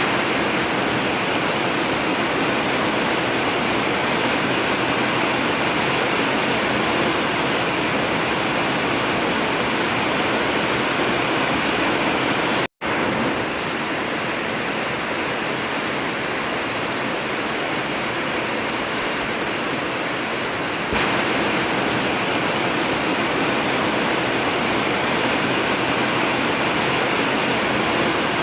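Heavy rain drumming on an old corrugated zinc roof, a dense steady hiss. The sound cuts out for an instant about halfway through, then returns slightly louder and brighter a little later.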